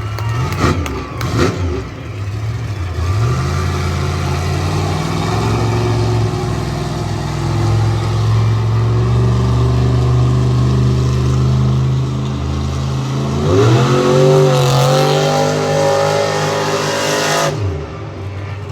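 Monster truck engine running loud and steady, then revving up about two-thirds of the way through before dropping off sharply near the end.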